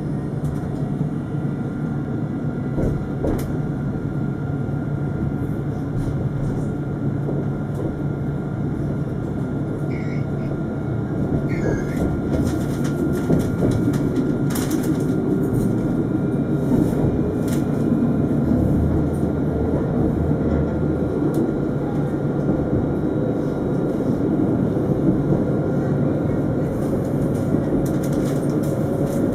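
Alstom Citadis 402 tram running, a steady rail rumble with a few clicks partway through. A faint whine rises slowly through the second half.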